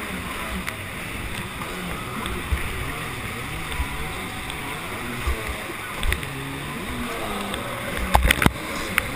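Jet ski engine running over water noise, its pitch wandering up and down. A cluster of sharp knocks comes about eight seconds in.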